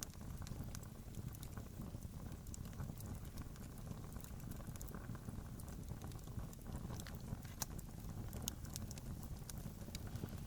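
Campfire crackling: irregular small pops and snaps of burning wood over a steady low rumble.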